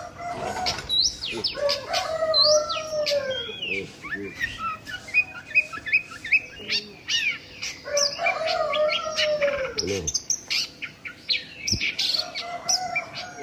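Many small birds chirping and tweeting in quick succession, while a rooster crows twice, each crow a long call that drops in pitch at its end.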